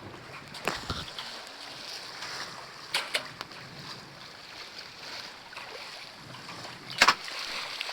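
Wind and water noise aboard a sailboat, with a few sharp knocks; the loudest, a quick double knock, comes near the end.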